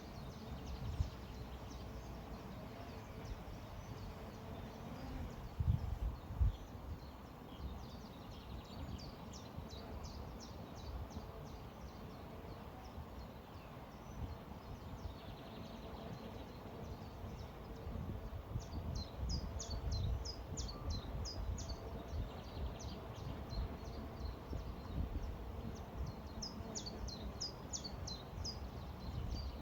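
Small birds chirping in quick runs of short high notes, three times, over a steady low rush of river water and breeze. A couple of soft low thumps come about six seconds in.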